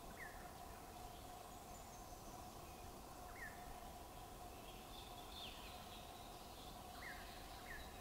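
Faint outdoor ambience with a steady hum, over which a bird gives short, high, down-slurred chirps: one right at the start, one around three and a half seconds in, and two near the end, with a longer falling call in the middle.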